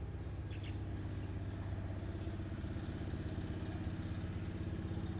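An engine running steadily at an even low pitch, like a vehicle idling.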